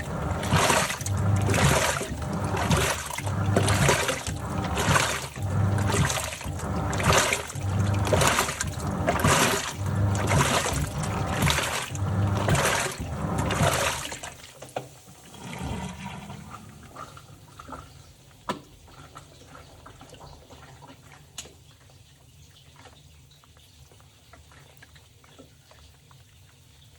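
Top-loading washing machine agitating a load: water and laundry sloshing in even surges about every second and a half. About fourteen seconds in the agitation stops, leaving quiet trickling and dripping with an occasional faint click.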